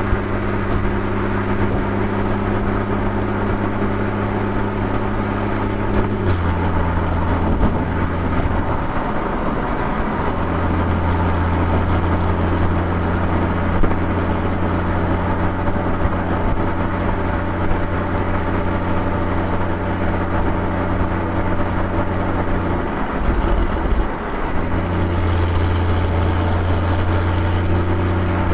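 Porsche 981 Boxster 2.7-litre flat-six engine and exhaust under way, running at steady revs. The note steps down about six seconds in, breaks up briefly twice, then settles again, with road noise underneath.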